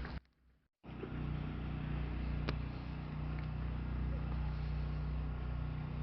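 A motor vehicle running steadily, heard from on board while moving, after a brief silence near the start; a single click about two and a half seconds in.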